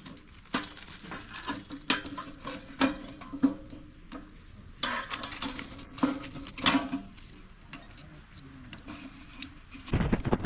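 Steel tongue drum struck by hand or mallet, about a dozen irregular ringing notes over the first seven seconds, then a pause of a few seconds.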